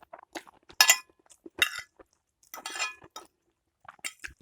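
A utensil clinking and scraping against a bowl several times while noodles are eaten, with small wet eating noises between the clinks.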